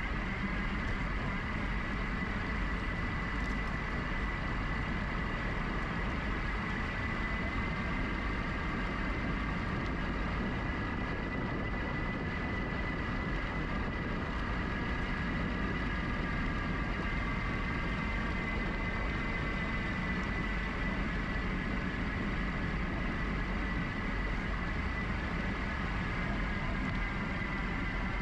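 GoCycle GX electric bike's motor whining steadily at a high pitch that drifts slightly up and down with speed, over a steady low rumble of riding.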